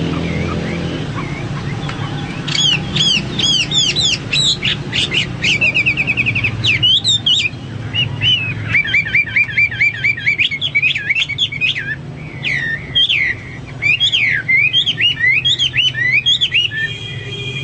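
Hwamei (Chinese hwamei, melodious laughingthrush) singing a loud, varied song of quick whistled sweeps, repeated notes and fast trills, starting a couple of seconds in, with short pauses between phrases. A steady low hum runs underneath.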